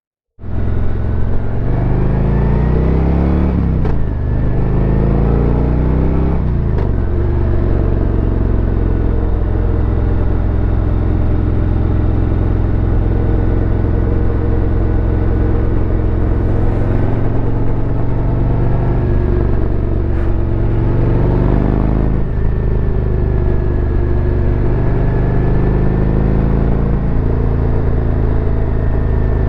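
Harley-Davidson Road Glide's V-twin engine accelerating through the gears. The pitch climbs and drops at each shift over the first several seconds, then holds at a steady cruise, with another drop and climb a little past halfway.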